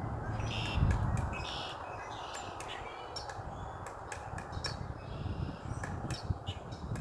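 Pileated woodpecker pecking into a cedar trunk: irregular sharp knocks, a few per second, with short bird chirps in the background. A low thump comes about a second in.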